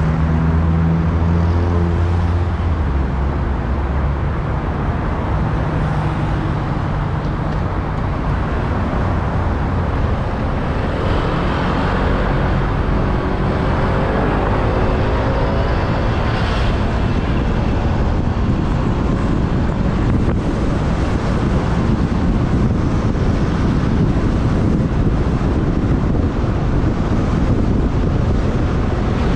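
Motorbike riding in city traffic: a steady rush of wind on the microphone over the engine and the surrounding traffic. Engine tones sound low down for the first few seconds, and an engine pitch rises and falls about halfway through.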